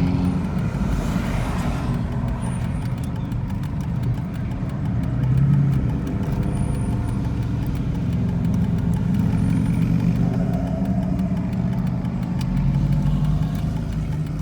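Car engines running at low revs, a steady low rumble that swells briefly about five seconds in and again near the end.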